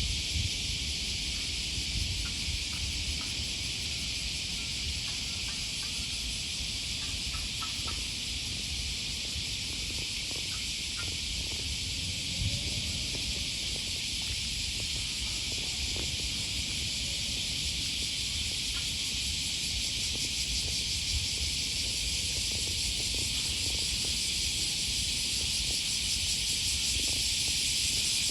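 Cicadas singing in chorus, a steady high buzz that grows a little louder near the end, over a low rumble.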